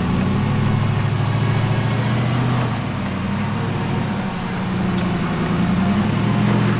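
A Jeep's engine running at low revs as it crawls over rock, its pitch rising and falling slightly as the throttle is worked.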